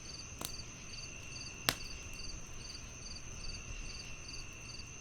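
Crickets chirping in an even pulsing rhythm, about two to three chirp groups a second, over a steady high insect trill. Two sharp pops of a crackling wood fire cut through, the louder one about a second and a half in.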